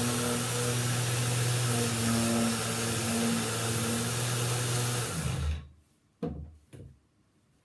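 Electric motor of a sanding or dust-vacuuming machine running steadily with a loud hiss of air, switched off about five and a half seconds in, its hum falling as it winds down, then two light knocks.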